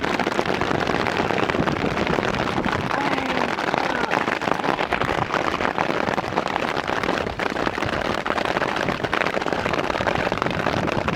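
Heavy rain or hail drumming close to the microphone as a steady, dense crackling patter.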